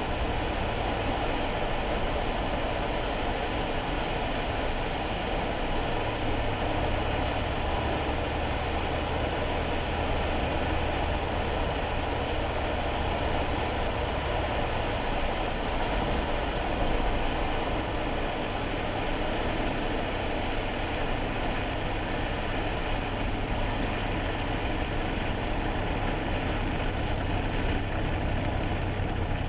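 Steady road and tyre noise inside a kei car's cabin on a wet road, over the low, even drone of its small engine.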